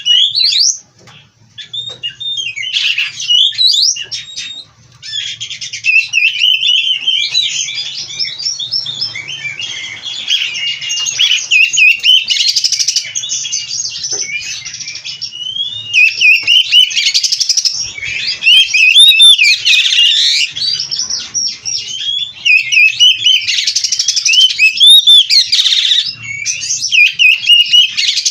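Oriental magpie-robin (kacer) singing a long, rapid run of varied whistles, chirps and trills, its song packed with mimicked calls. There is a short pause about a second in.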